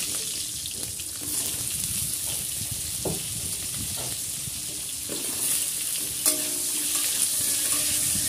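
Pieces of pointed gourd (potol) sizzling as they fry in hot oil in a kadai, with soft knocks as more pieces are dropped in. Near the end a metal spatula clinks and scrapes against the pan.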